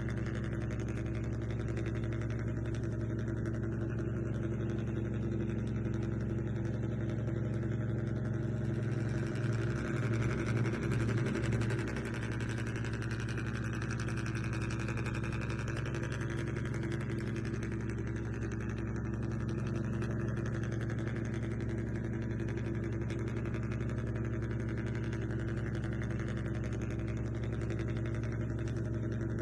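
Steady idling vehicle engine hum, with a brief pulsing swell about ten seconds in.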